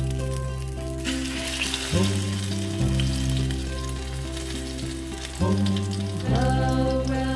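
A flour-coated piece of meat frying in hot oil in a miniature stainless-steel pan, the sizzle setting in about a second in. Background music with steady held tones plays underneath.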